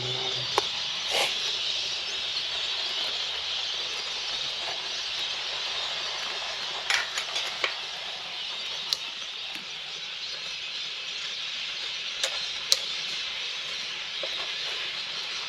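Petrol running from a fuel-pump nozzle into a motorcycle's tank: a steady hiss, with a few short clicks and knocks.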